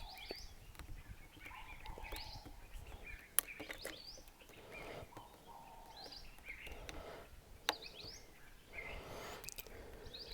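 Faint birds chirping repeatedly in the background, short rising and falling calls. Two sharp clicks, one about a third of the way in and another about three-quarters through.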